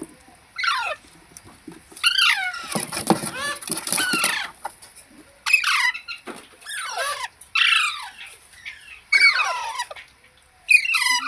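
Parrot giving a run of short, harsh squawking calls, one every second or so, with a longer rasping call about three seconds in.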